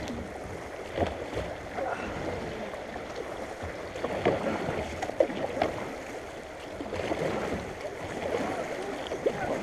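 Creek water rushing through shallow rapids around a kayak being paddled, with a few short sharp knocks.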